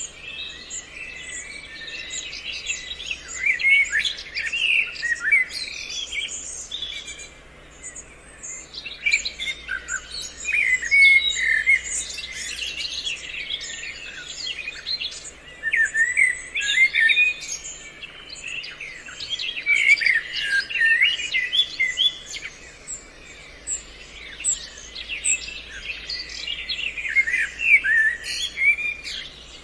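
A chorus of many birds chirping and singing, with short calls and trills overlapping in bouts that come and go.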